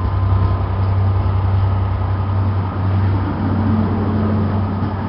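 Class 67 diesel locomotive's EMD two-stroke V12 engine running with a steady low hum.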